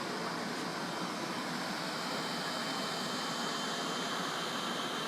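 Little Blizzard fluid-based snow machine running at high output: a steady blower rush with a faint high whine.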